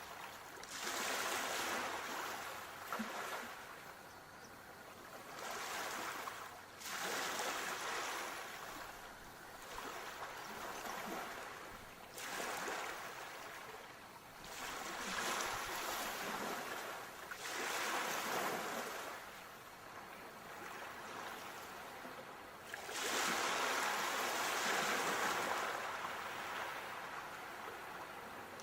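Sea waves washing onto a shore, one surge every few seconds, each rising and fading away, with the longest and loudest wave near the end.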